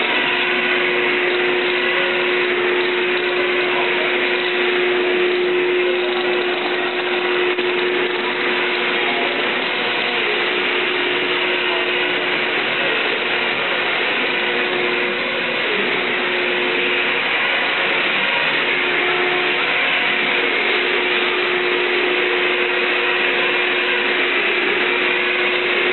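Dusenbery 815 slitter-rewinder running steadily: a constant mechanical whir with a steady hum through it.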